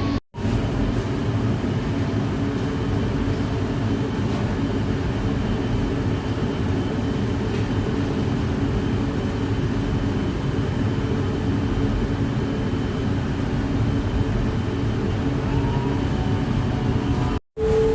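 Jakarta LRT light-rail train running between stations, heard from inside the car: a steady rumble of the wheels and running gear on the track. A faint rising whine comes in near the end.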